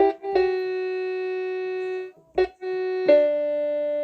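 Electronic keyboard holding sustained chords, with no singing. The notes stay level without fading, change at the very start and again about a third of a second in, break off briefly a little past two seconds, and a new chord comes in just after three seconds.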